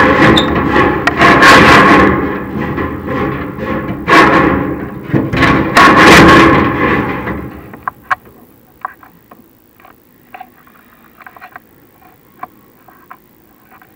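Chimney inspection camera scraping and knocking inside the metal flue of a prefabricated fireplace, loud and dense for about the first seven seconds, then dying down to scattered faint clicks and taps.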